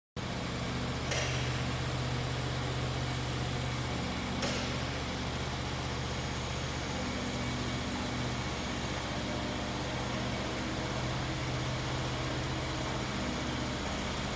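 OX SB-800 sawmill running with a steady low machine hum, cutting in suddenly, with two short clicks about one and four and a half seconds in.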